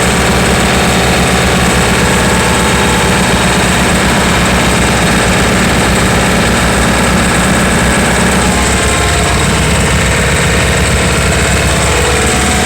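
John Deere 4210 tractor's three-cylinder diesel running steadily at raised throttle, driving a rear snowblower through the PTO.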